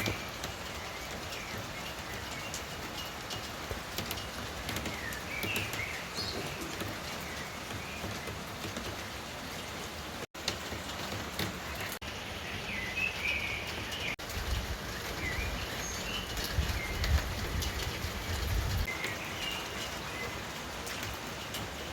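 Steady rain falling, with birds chirping now and then over it. A low rumble rises for a few seconds past the middle.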